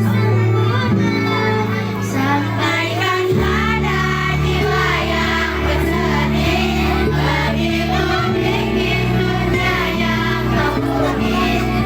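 A primary school child singing a gentle song over an instrumental backing with long held bass notes, which change chord about three and a half seconds and eight seconds in.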